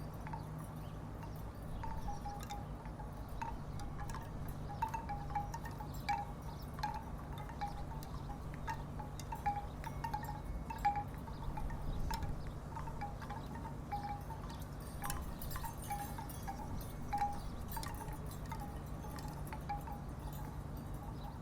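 Wooden tiki wind chimes knocking together in the breeze: short, irregularly spaced wooden clacks, with a steady low hum underneath.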